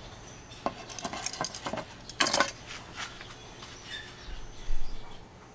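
Metal utensils clinking and scraping against a dish in a few short bursts, with a dull low bump about four and a half seconds in.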